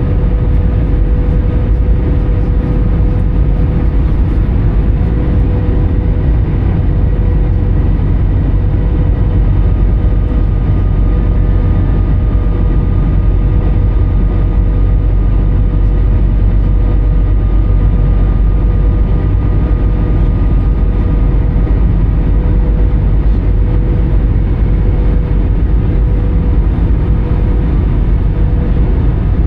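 Steady cabin noise of an Airbus A320 in flight: a low rumble of airflow and CFM56 engines, with a steady hum tone.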